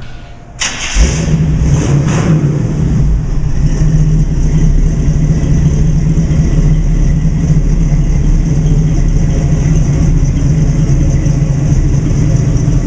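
The street rod's engine cranks and starts about a second in, then runs steadily and loudly.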